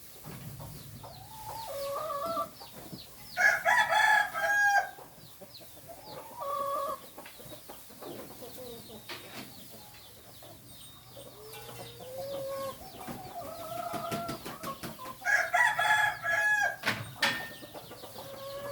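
Rooster crowing twice, about twelve seconds apart, each crow a loud, drawn-out call, with chickens clucking between the crows.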